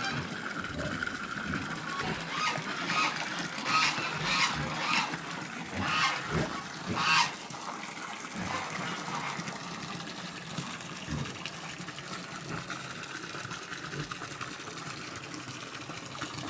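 Domestic geese honking: a run of short, loud calls between about three and seven seconds in, then quieter scattered calls, over a steady rush like running water.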